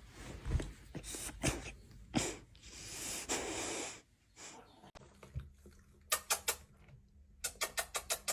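A sleeping dog snoring: irregular snorting breaths and one long raspy exhale in the first half, then two runs of quick sharp snuffles, about five a second, near the end.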